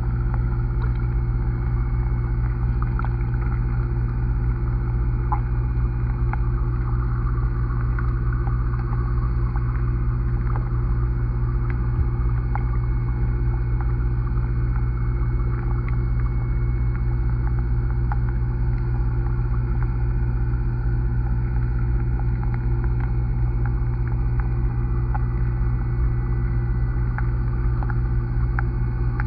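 Steady low rumble and hum of pond water picked up by a camera held underwater, with faint scattered clicks.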